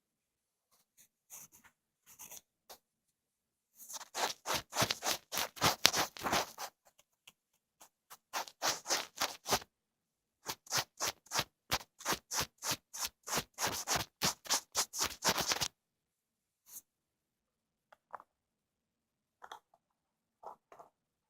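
ASMR ear-cleaning sounds: a tool scratching and scraping close on the microphone. The strokes come in three dense runs of quick scratches in the middle, with a few scattered soft scratches before and after.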